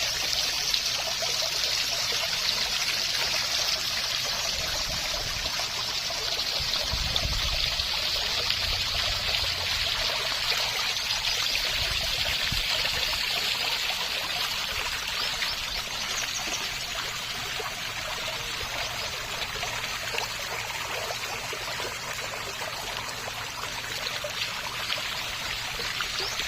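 Water running and trickling in a small stream, a steady splashing hiss with a brief low rumble about seven seconds in.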